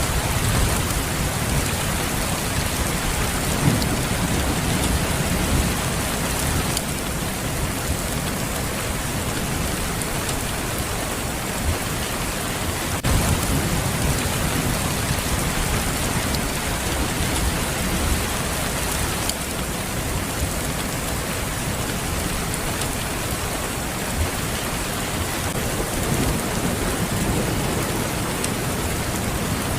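Steady, heavy rain falling, with low rolls of distant thunder several times: near the start, about four seconds in, about halfway through and near the end.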